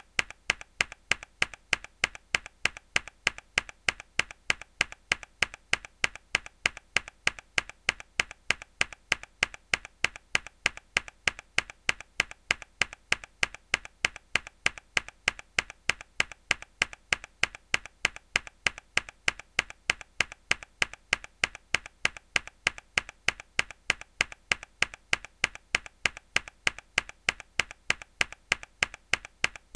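Mechanical keyboard key pressed hard again and again: sharp clicks at an even, quick rhythm, a few a second, with a softer click between each loud one.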